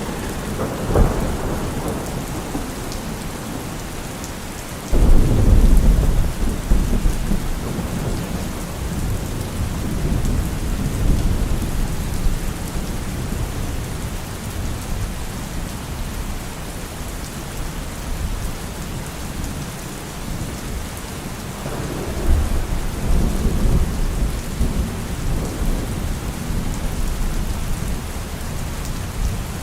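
Steady rain falling through trees, with thunder. A sudden deep thunderclap comes about five seconds in and rumbles away over several seconds, and another rolling rumble follows past the twenty-second mark.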